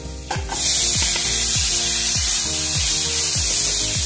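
Chopped tomatoes going into hot oil and fried spice masala in a kadai: a loud sizzle starts suddenly about half a second in and carries on steadily while a spatula stirs. Background music with a steady beat plays throughout.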